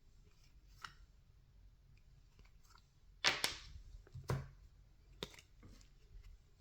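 Trading cards and a pack wrapper being handled: scattered light clicks and rustles, with a loud, brief rustling burst a little over three seconds in, another about a second later, and a sharp click a second after that.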